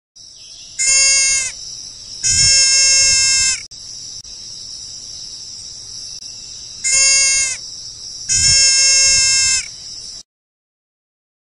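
Four bleating animal calls in two pairs, each pair a short call followed by a longer one, over a steady hiss that cuts off suddenly near the end.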